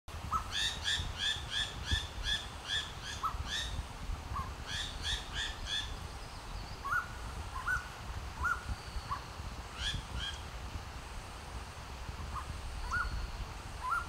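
Striated Laughingthrush calling: a quick run of about ten ringing notes, about three a second, then a shorter run of four. Single short rising notes come in between and later on, over a low rumble.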